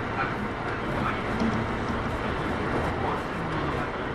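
Kintetsu 8810 series electric train running, heard from inside the car: a steady rumble of wheels on rail and running gear.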